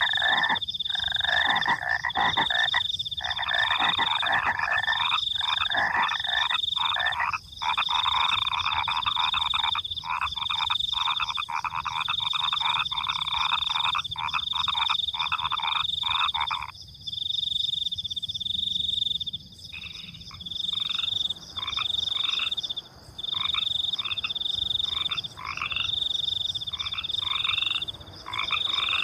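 Frogs croaking in a dense night chorus over the steady pulsing chirp of crickets. The loud croaking stops about 17 seconds in, leaving the chirping alone for a few seconds, then comes back as shorter, separate calls.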